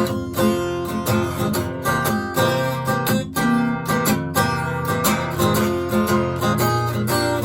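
Acoustic guitar strummed in a steady blues rhythm, chords ringing between the strokes: the instrumental opening of the song before the vocals come in.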